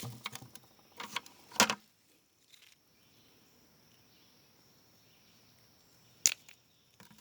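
Crunching and rustling on dry forest-floor litter and rocks, from steps and hands at work: several sharp crunches in the first two seconds and another about six seconds in. A faint steady high-pitched drone lies under it.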